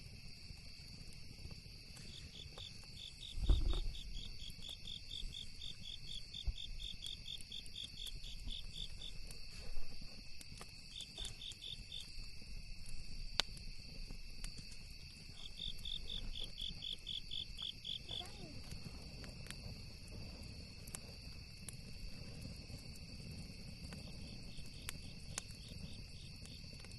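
Night insects: a steady high drone with several runs of rapid chirping pulses. Small crackles from a campfire are scattered through it, and there is a low thump about three and a half seconds in.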